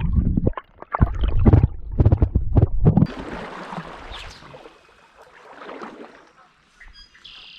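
Loud rumbling knocks on the microphone for about three seconds, then a hiss of moving stream water that fades away.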